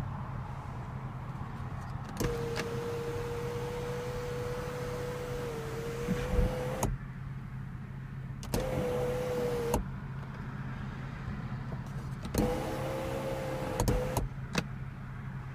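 Electric sunroof motor of a 2014 BMW 435i whining steadily as the one-touch sunroof is worked, in three runs: a long one of about four seconds, a short one of about a second, and one of about two seconds. Each run starts and stops with a click.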